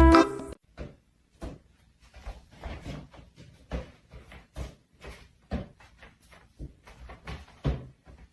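A run of irregular light knocks and clicks, about two a second, after music that cuts off about half a second in.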